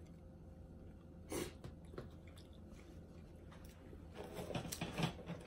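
Faint chewing of seafood: soft mouth clicks about a second and a half and two seconds in, then a run of small wet clicks near the end.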